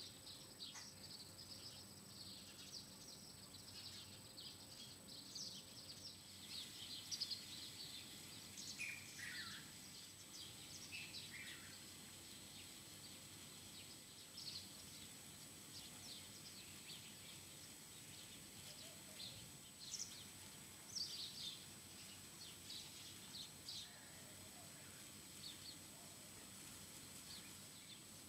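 Faint chirping and twittering of small birds, many short high calls scattered throughout, with a few falling calls about ten seconds in.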